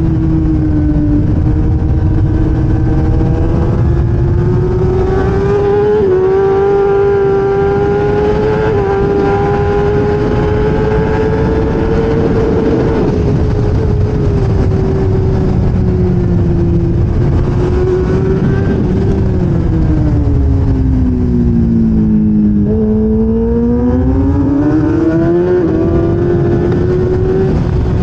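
1000cc race motorcycle engine running hard at high revs, with a constant rush of wind noise. Its pitch climbs slowly, falls away over a few seconds about two-thirds through as the bike slows, then rises again as it accelerates.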